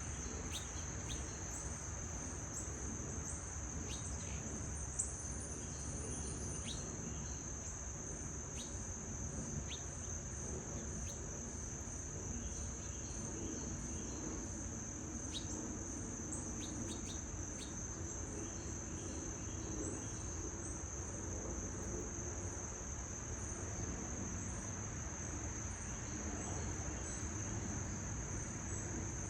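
A continuous high-pitched insect trill, steady throughout, with a few short bird chirps scattered through it.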